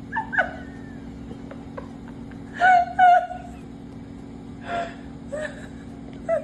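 An animal gives short, high whining cries that bend in pitch, a loud pair in the middle, over a steady low hum.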